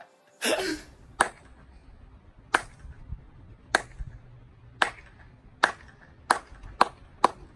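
A short noisy burst, then a string of single sharp knocks, about a second apart at first and coming faster toward the end.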